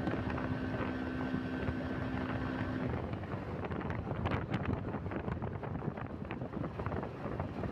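Bajaj Pulsar NS125 single-cylinder motorcycle riding along at speed, with wind buffeting the microphone. A steady pitched hum runs for about the first three seconds and then stops.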